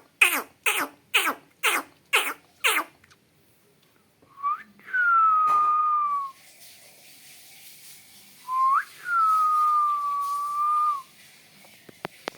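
Pet parrot giving a quick run of about seven harsh screeches, then two long whistles, each starting with a short upward sweep and easing slightly down in pitch.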